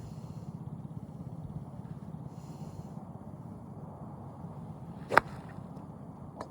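A golf club striking a ball once at a driving range: a single sharp click about five seconds in, with a fainter click near the end. Under both runs a steady low rumble.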